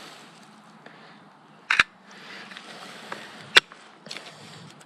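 Two shutter releases of a Canon EOS R mirrorless camera, short sharp clicks about two seconds apart, over faint outdoor rustle.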